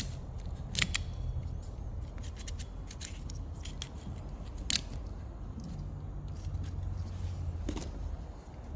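Irregular sharp clicks and light metallic taps from small tools and parts being handled, the loudest about a second in and near the middle, over a steady low hum.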